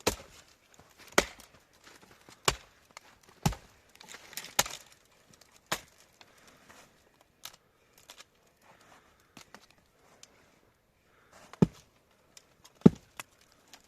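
A series of sharp, loud blows, about one a second for the first six seconds, then a pause with a few faint taps, then a few more blows near the end.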